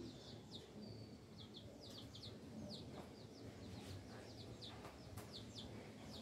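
Birds chirping: short, quick high chirps that slide downward, coming in small clusters throughout, over a faint low background hum.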